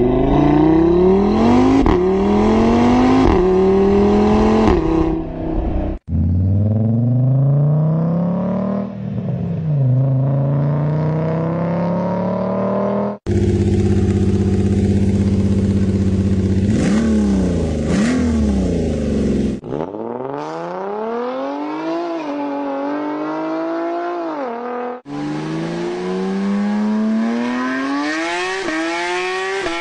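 A series of car engines revving, cut together as separate clips: an inline five-cylinder at first, an inline six in the middle, and a flat six near the end. In each clip the pitch climbs and drops as the throttle is blipped. There are abrupt changes from one engine to the next about 6, 13, 20 and 25 seconds in.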